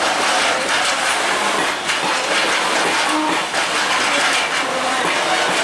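A freight train of self-discharging hopper wagons (Talbots) rolls past at steady speed: continuous wheel-on-rail rumble and rattle, with an occasional clack from the wheels.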